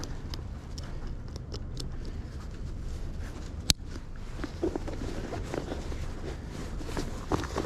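Bicycle riding noise: a steady low rumble of tyres and wind, with scattered light clicks and rattles from the bike and one sharp click about halfway through.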